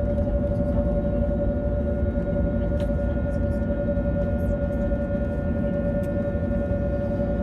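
Steady cabin noise inside an Airbus A321neo: a deep rumble with a constant mid-pitched whine over it, the hum of the aircraft's running systems.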